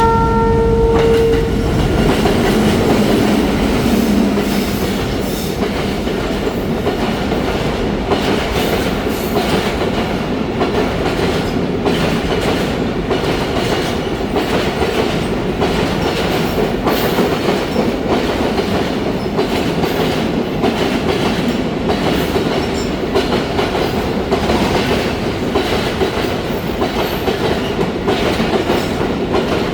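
A train horn's held note that cuts off about a second in, then a train running steadily, its wheels clattering over the rail joints.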